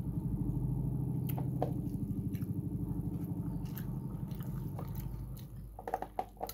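Chewing and small wet mouth clicks from eating by hand, over a steady low hum with a fast flutter that stops about a second before the end.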